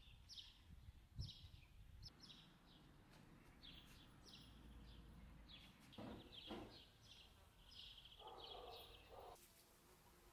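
Faint chirping of a small bird: short falling chirps repeated about twice a second, with two soft knocks about six seconds in.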